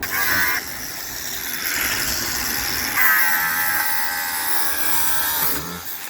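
Power grinder running against lacquered wood, scouring off the varnish down to bare wood, with a high whine that shifts in pitch as the tool bites and eases. It stops shortly before the end.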